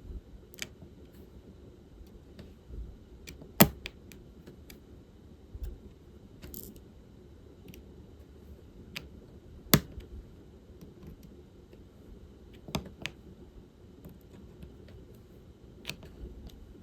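Diamond painting work: scattered small clicks and taps of the drill pen and plastic resin drills on the canvas, tray and bead case, with two sharp, louder clicks, one a few seconds in and one near the middle.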